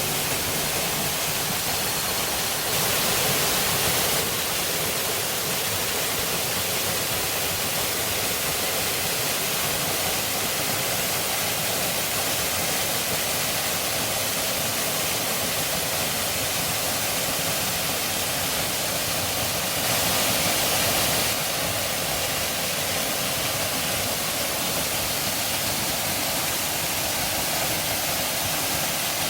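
Waterfall: a steady rush of falling water that swells slightly twice, about three seconds in and again about twenty seconds in.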